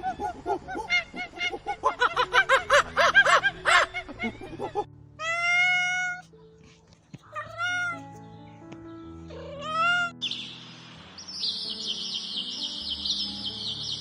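A cat meowing three times in long, drawn-out calls, after about four seconds of many quick, overlapping high-pitched calls. From about ten seconds in, birds chirp in a fast, high twitter.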